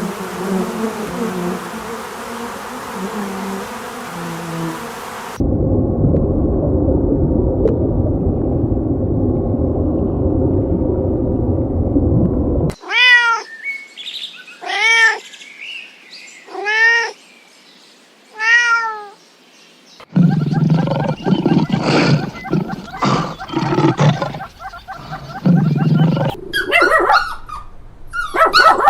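A run of different animal sounds edited one after another. First comes a hiss with a low buzzing, then a low rough noise, then four arched, pitched calls about two seconds apart, then a busier stretch of low calls.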